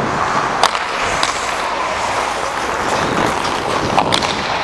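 Ice hockey skates scraping and carving on the rink ice in a steady hiss, with a few sharp clacks of sticks and puck, two of them close together near the end.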